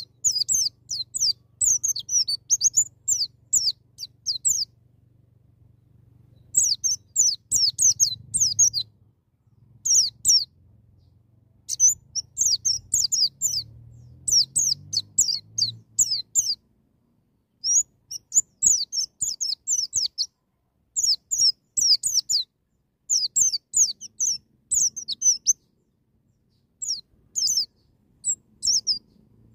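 White-eye (pleci) singing a rapid-fire song of high, quickly falling chirps. The phrases last one to four seconds and are separated by short pauses.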